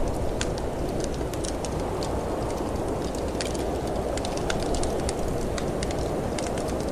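Steady, low rush of snowstorm wind, with a wood fire crackling in frequent sharp, irregular pops over it.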